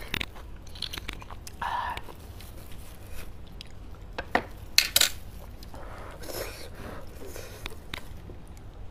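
Close-miked eating sounds: chewing and wet mouth noises over roasted beef bone marrow, with soft handling of the bones in plastic gloves. A few sharp clicks about halfway through are the loudest.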